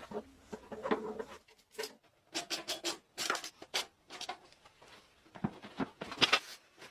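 Short scraping and rubbing strokes with a few light clicks, from engine parts being handled and worked on by hand. They come in clusters, busiest a couple of seconds in, with a brief pause before, and a last sharp flurry near the end.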